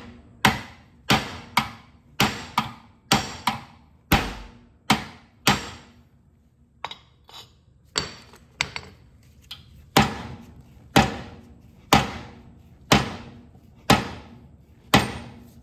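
Repeated hammer blows on metal, driving a stuck blade-spindle shaft and its bearings out of a John Deere 318 mower deck spindle held in a vise. The blows come about twice a second, stop for a couple of seconds with a few light taps, then resume at about one a second. The shaft is tight and moving only a little.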